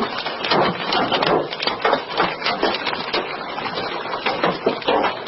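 Large hailstones pelting hard surfaces: a dense, irregular clatter of sharp knocks.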